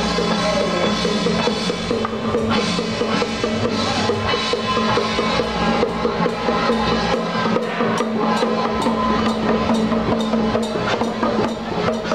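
Procession music with drums and percussion under a sustained melody line. Sharp, regular taps come through more clearly in the second half.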